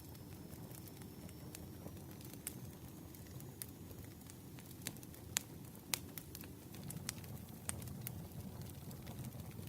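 Campfire burning: a low steady rumble of flames with irregular sharp crackles and pops, two of the loudest about halfway through.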